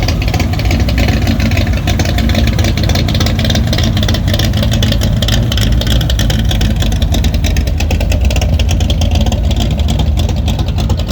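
A car engine running loudly close by, a steady rumble with rapid pulsing.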